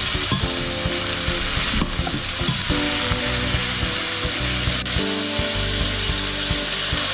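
Fish and aromatics frying in oil in a stainless steel pot, sizzling steadily, with a slotted spatula stirring and turning them. Soft background music with held chords plays underneath.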